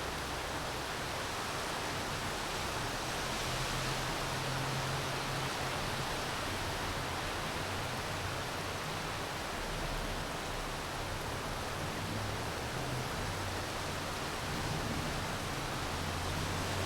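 Steady rain falling, an even hiss, with a low rumble underneath that swells and fades a few times.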